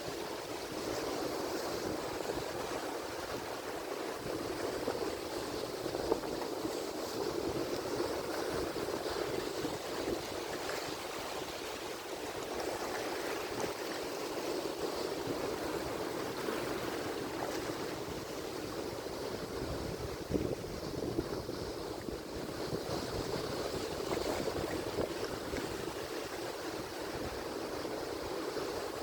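Ocean surf: a steady wash of waves breaking and churning on the shore, swelling and easing a little without any single loud crash.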